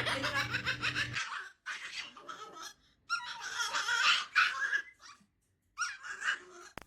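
Laughter in four short bouts with brief gaps between them.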